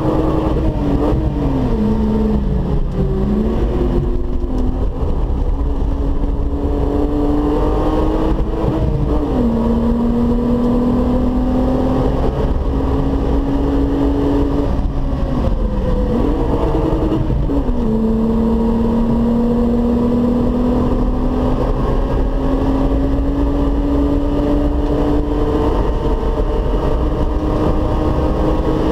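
Volkswagen Golf 3 VR6 engine pulling under acceleration, its note climbing slowly and dropping sharply at upshifts about nine and seventeen seconds in, with wind and tyre noise underneath.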